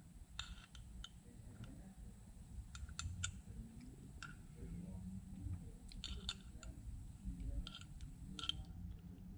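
Faint, scattered small metallic clicks and ticks of hand tools on a stud, nut and washers as the nut on the oil filler cap assembly is carefully tightened down, some in quick little clusters.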